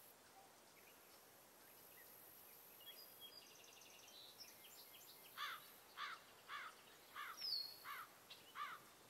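Faint birdsong over a low hiss: a few high chirps, then a bird repeating a short call about twice a second through the second half.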